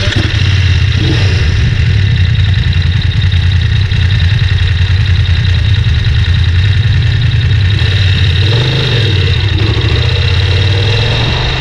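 Motorcycle engine running steadily with a deep, even hum, its pitch wavering briefly near the end.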